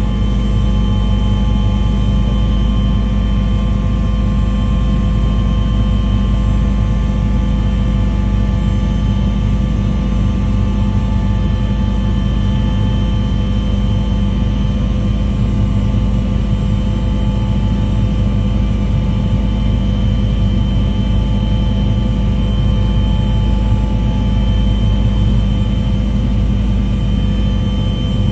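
A steady, loud engine-like drone with a deep hum and several constant tones, unchanging throughout.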